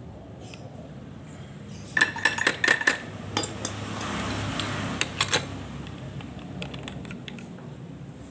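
Hard objects clinking and clattering for about a second, with a short ringing tone, then a scraping rustle and a couple more clinks.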